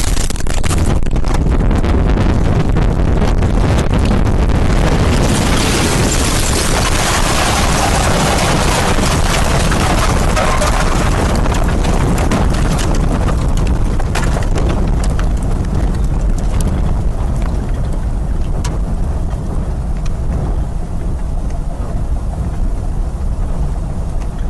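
Heavy storm wind buffeting the microphone: a deep, steady rumble with hiss above it that eases somewhat in the second half, with a few sharp clicks partway through.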